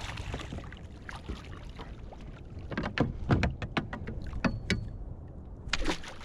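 Irregular knocks and taps on a fishing kayak as a freshly landed bonito is handled and dispatched with a kill spike, over a steady background hiss. The knocks cluster loudest about three seconds in and again near the end.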